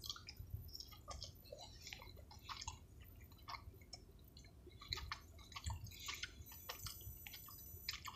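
A person chewing a crispy-battered chicken nugget dipped in ranch sauce, close to the microphone: faint, wet mouth sounds with many small irregular clicks and crackles.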